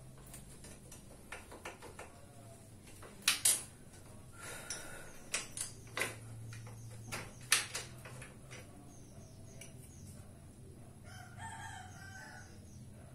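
Sharp clicks and knocks from work on a motorcycle rear wheel, the loudest coming in a pair a few seconds in and again about halfway, over a steady low hum. Near the end comes a drawn-out animal call.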